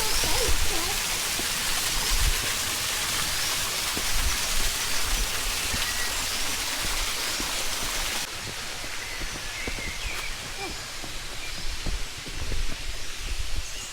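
Small waterfall rushing, a steady hiss of falling water that drops suddenly in level about eight seconds in.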